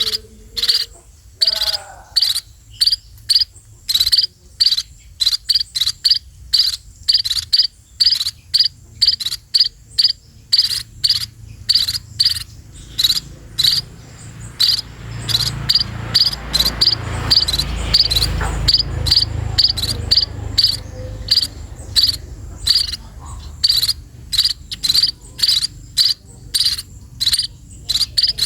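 Cricket chirping steadily in short, evenly spaced high pulses, about two to three a second. A low rumble swells and fades midway.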